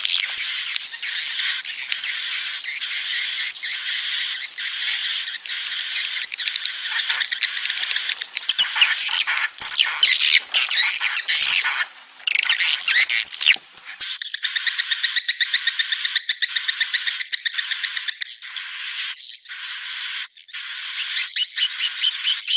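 Edible-nest swiftlet calls of the kind used as a swiftlet-house lure: high, buzzy twittering chirps repeated in short bursts about one and a half times a second. About a third of the way in, the calls overlap into a denser tangle, then settle back into the regular pattern.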